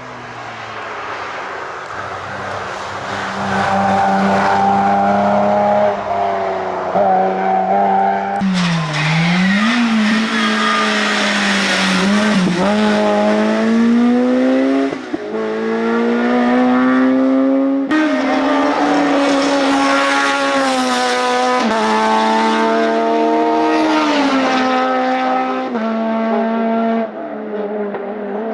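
Hillclimb race car engines at full throttle, the pitch climbing and then dropping at each gear change, over several runs past the trackside.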